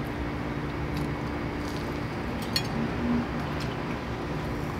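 Quiet chewing of a glazed fritter over a steady background hum, with a few faint clicks and a short low hum about three seconds in.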